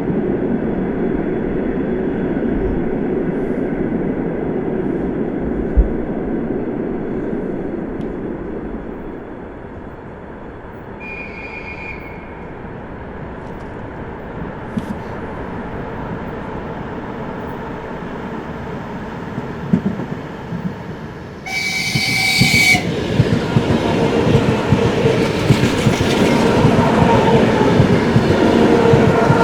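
Passenger train hauled by a ChS7 electric locomotive approaching: a short faint horn note about eleven seconds in, then a louder horn blast of about a second a little past the two-thirds mark. After the blast the clickety-clack of the wheels over rail joints grows steadily louder as the train closes in.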